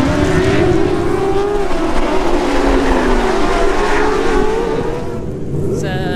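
Racing engines of TQ speedway cars running hard on the track, their pitch rising and falling as they circle. The sound fades about five seconds in.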